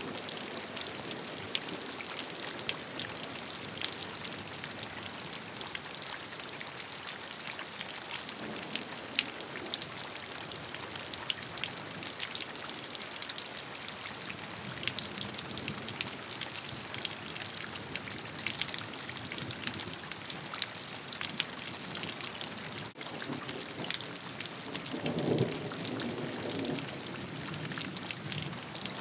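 Steady rain falling on a surface, a dense even hiss with many separate drops ticking through it. A low rumble of distant thunder swells briefly near the end.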